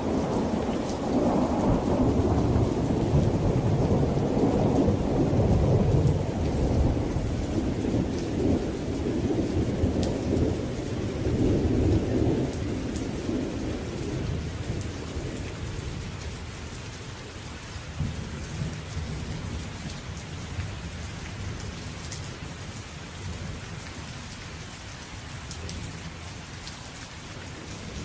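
Thunderstorm: a long roll of thunder rumbling over steady rain, dying away about halfway through and leaving the rain falling on its own with scattered drop ticks.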